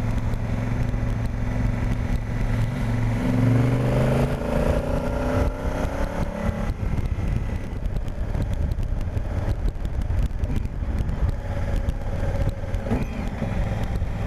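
Honda Africa Twin's parallel-twin engine running under way, its pitch rising as the bike accelerates about three to six seconds in, then settling into a steady rush of wind and road noise with the engine faint underneath.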